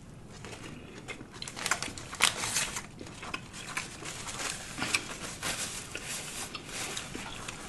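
Close-miked chewing and mouth sounds of someone eating a sandwich: irregular soft crackles and clicks with a few louder smacks.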